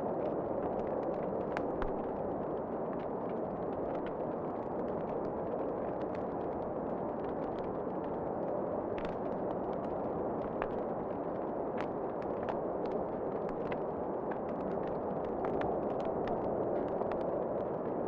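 Fireplace fire crackling, with many sharp, irregular pops and snaps over a steady, even rushing noise.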